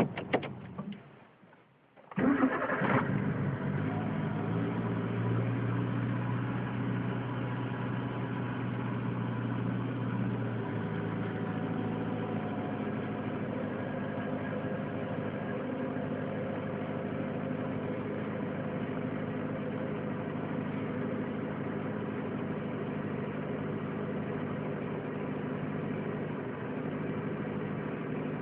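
Suzuki Swift 1.3 16v four-cylinder engine started from cold in frost: after a short burst of cranking it catches about two seconds in with a brief flare of revs, then runs at a fast cold idle that eases slightly around ten seconds in and settles into a steady idle.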